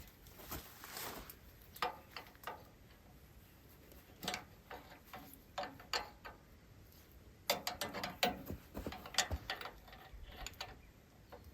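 Faint, scattered metallic clicks and light knocks of hand tools working on an excavator's fuel injection pump. They come in quick clusters more often late on, with spells of near quiet in between.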